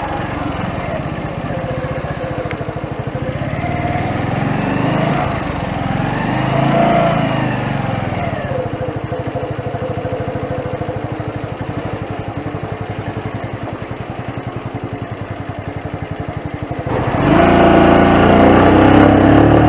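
Keeway Superlight 125 motorcycle engine running at low road speed, its pitch rising and falling a couple of times as the throttle is opened and eased off. About 17 seconds in the sound jumps to a louder, fuller engine note.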